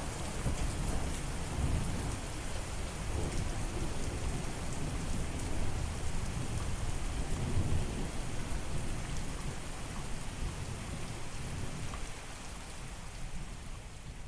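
Steady rain falling, with a low rolling rumble of thunder under it that slowly fades away.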